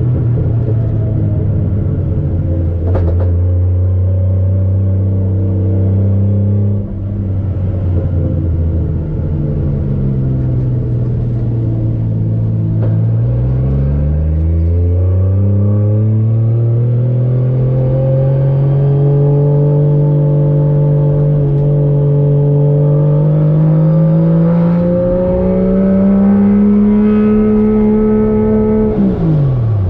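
Turbocharged 1JZ-GTE VVT-i inline-six in a Nissan 240SX, running under way. The engine note holds steady at first. About 13 seconds in the pitch dips, then climbs slowly for about fifteen seconds, and it drops sharply near the end.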